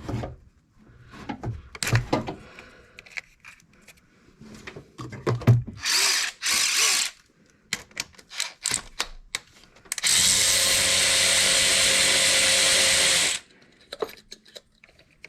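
Handheld power drill running steadily for about three and a half seconds, then stopping abruptly, after a run of clicks and clatter from tools on the engine.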